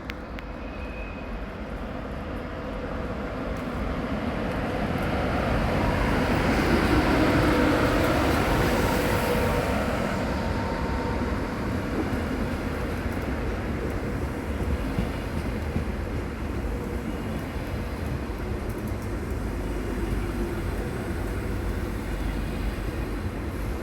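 TGV inOui high-speed train running into the station: a steady rumble of wheels and running gear with a faint steady whine. It builds to its loudest about seven seconds in, then holds level.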